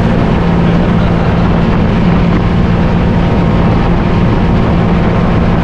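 Motorboat engine running steadily: a constant low drone under an even wash of noise.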